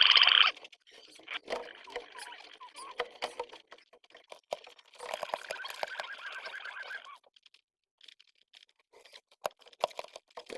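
Pigeon squabs in the nest with their parents: quick clicking, rustling and scrabbling, with two denser bursts of squeaky begging, right at the start and again about five seconds in.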